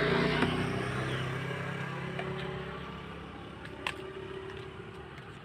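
A motor vehicle's engine running steadily, fading gradually as it moves away, with a short sharp click about four seconds in.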